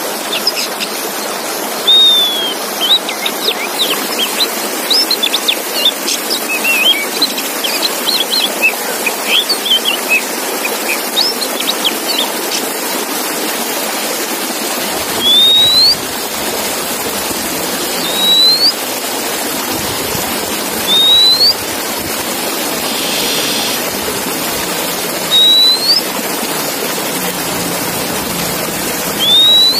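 Male Oriental magpie-robin (kacer) singing: a fast run of varied chirps and whistles, then single rising whistles repeated every few seconds. Steady water-like hiss underneath.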